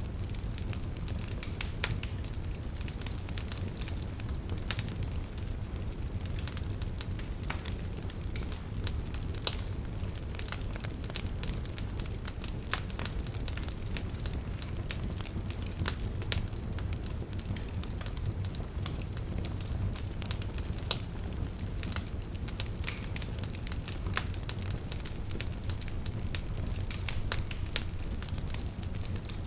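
Wood fire burning in a fireplace: a steady low rumble of the flames with irregular sharp crackles and pops from the burning logs, a couple of louder pops about ten and twenty seconds in.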